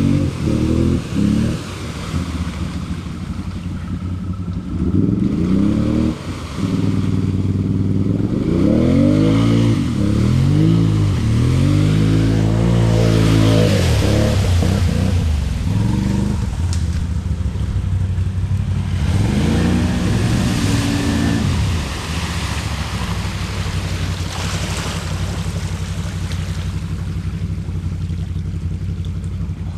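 ATV engine revving up and down over and over as it is ridden, pitch climbing and dropping several times, then running more evenly near the end. Spells of rushing hiss come and go over the engine.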